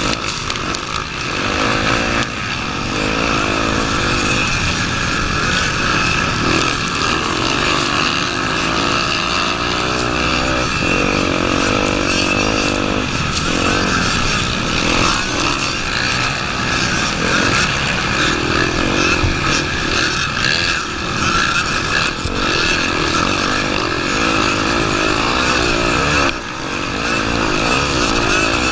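Honda Tornado 250's single-cylinder four-stroke engine running under a rider, revs rising and falling again and again, with a brief drop in loudness near the end.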